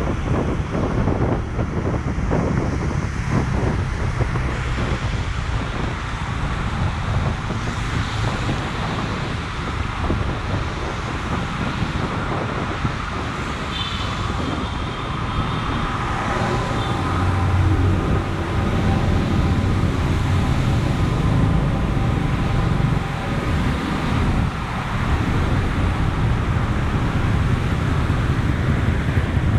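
Steady road traffic noise: vehicles running past with a low rumble, and a faint whine coming in about halfway through.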